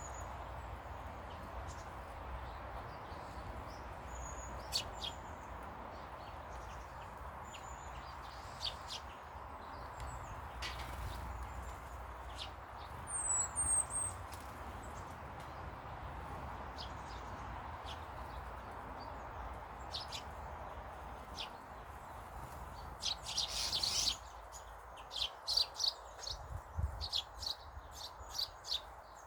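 Birds chirping: short high calls scattered throughout, thickening into a quick run of chirps over the last few seconds, over a steady background noise that fades about three-quarters of the way through.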